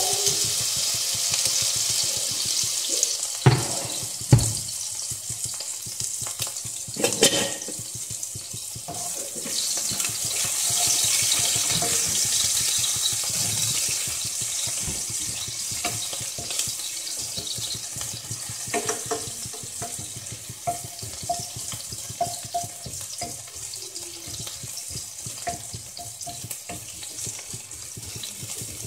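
Onion sizzling in hot olive oil in a frying pan, a steady hiss that is louder in the first half, with a few sharp knocks in the first several seconds.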